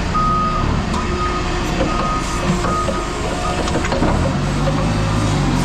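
A truck's backup alarm beeping repeatedly, a little under a second apart, over the low rumble of its engine as it reverses.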